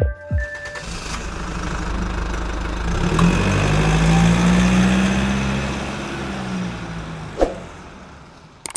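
A heavy vehicle engine running, growing louder to a peak about halfway through and then fading away, with a single knock shortly before it dies out.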